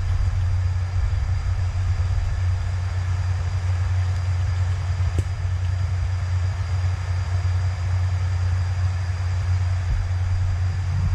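Steady low rumble of a vehicle, with a faint high steady whine over it.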